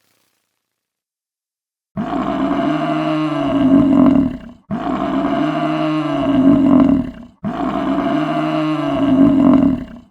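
A large animal's low, drawn-out vocal call, starting about two seconds in and repeated three times identically, each lasting about two and a half seconds with short gaps between.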